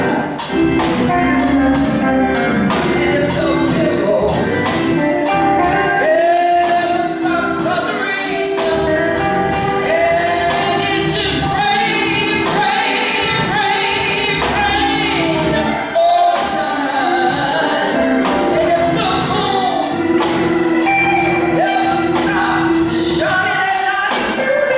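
Gospel music: a choir singing with a band, the singers' voices rising and falling over a steady beat with a tambourine.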